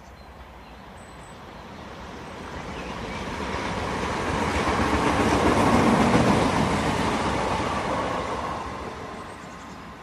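A train passing by: the rumble of its wheels on the rails grows louder to a peak about halfway through, then fades away.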